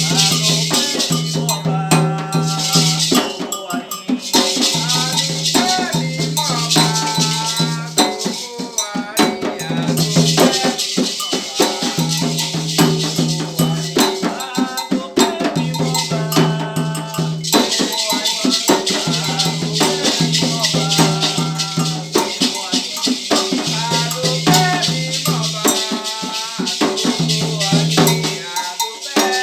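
Voices singing a Candomblé chant over continuously shaken rattles. A low steady note comes in and out in short stretches throughout.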